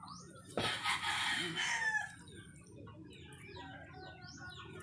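A rooster crowing once, one long call of about a second and a half starting about half a second in, followed by faint chirps of small birds.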